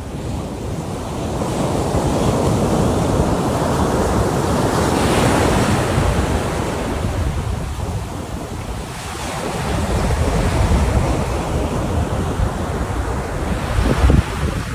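Ocean surf breaking and washing up a beach, swelling and easing in waves, with a brief low thump near the end.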